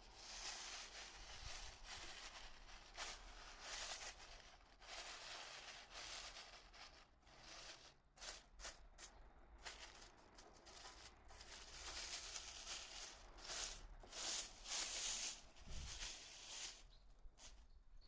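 Masking tape being pulled off its roll in a series of short tearing pulls, with crinkling of masking material, as a motorcycle engine is masked off. The pulls are loudest near the end.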